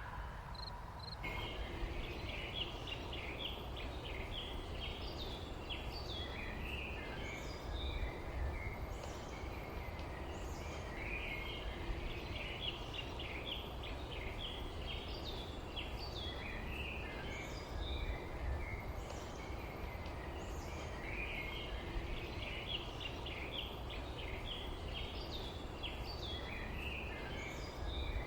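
Small songbirds chirping and twittering in repeated bursts, over a steady low rumble.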